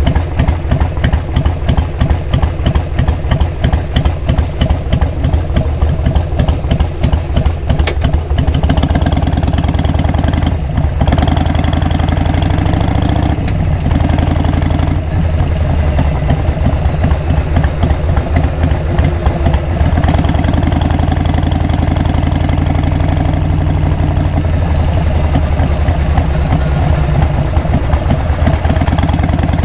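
2002 Harley-Davidson XL883R Sportster's air-cooled 883 cc V-twin through Cobra 909 SpeedSter Short mufflers, idling with an even, pulsing beat. About eight seconds in it picks up and runs harder under way, its pitch rising and falling, with short dips a few seconds apart.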